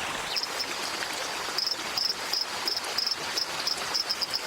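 High-pitched chirping calls of small animals in the rainforest, short chirps given singly and in quick groups of two or three, over a steady background hiss.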